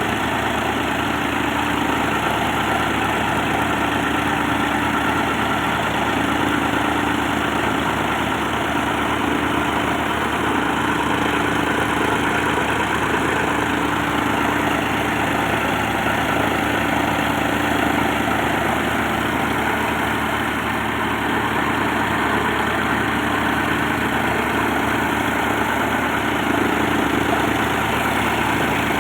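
Tractor engine running steadily while driving a three-blade chaff cutter, with a low hum that swells slightly every couple of seconds.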